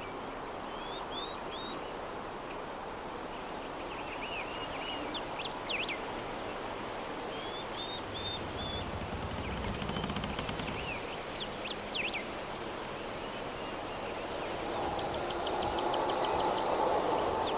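A steady soft breeze with birds calling at intervals: short chirps and quick up-and-down whistled sweeps, about every three seconds. A low rumble swells briefly about halfway, and a rapid trill comes near the end.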